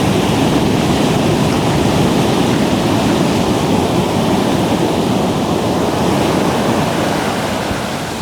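Ocean surf, a steady rushing wash of breaking waves, easing slightly near the end.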